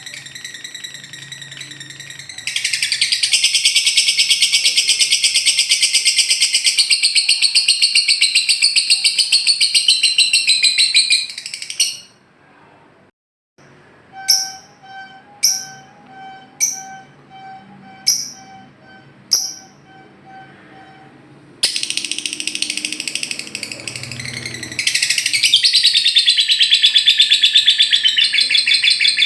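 Lovebird singing in the long, rapid chattering trill called ngekek. The chatter breaks off near the middle for a short pause and a string of separate short calls about a second apart, then starts again.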